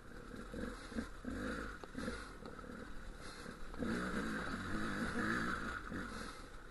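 Dual-sport motorcycle engine running while riding a rough, rocky trail, its pitch rising and falling with the throttle, a little louder about four seconds in.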